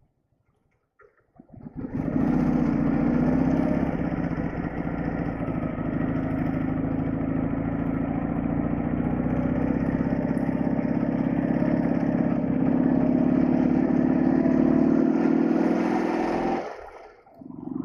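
Soviet flat-twin motorcycle engine running steadily under way, its pitch creeping slowly up. It starts abruptly out of near silence about two seconds in and cuts off sharply near the end.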